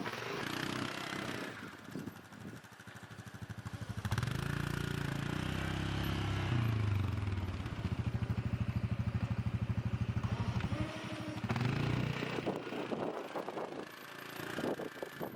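A vehicle engine running, loud for about eight seconds in the middle, with a fast, even pulsing beat toward the end of that stretch before it drops away.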